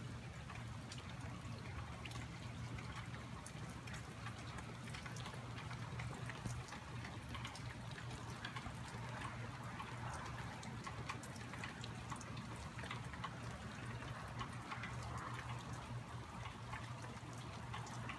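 Rain falling, with many small drops and drips ticking over an even hiss, and a steady low hum underneath.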